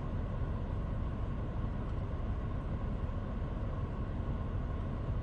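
Steady low rumble of vehicles held up in traffic, with no sudden sounds.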